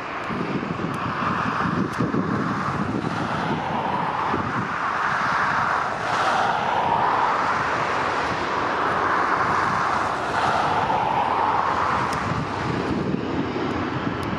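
Jet airliner's twin turbofan engines running loud and continuous, with a slowly wavering whine-like band in the roar. Wind buffets the microphone underneath.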